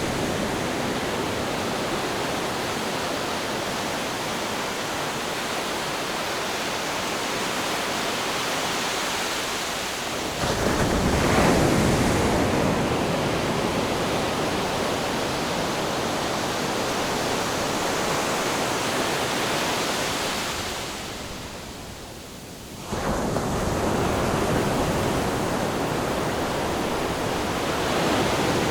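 Ocean waves washing in: a steady rush of surf that swells louder about ten seconds in, dips about two-thirds of the way through, then comes back suddenly.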